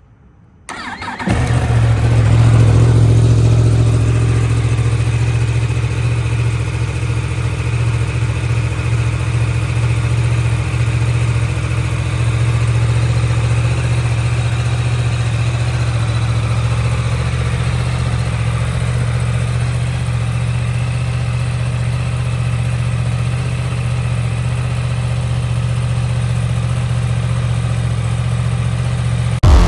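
2023 Yamaha R1's crossplane inline-four engine cold-starting about a second in, loudest just after it catches, then settling into a steady idle.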